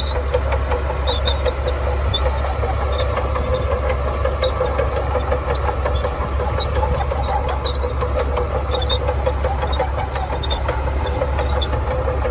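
Shantui bulldozer's diesel engine running steadily under work, with a constant low hum, dense clatter and scattered short high squeaks.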